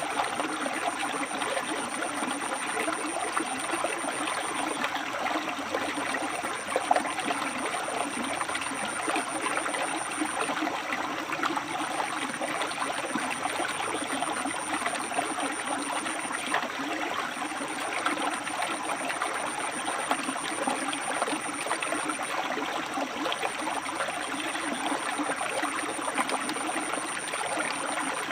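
River water running and splashing over rocks, a steady, even rush.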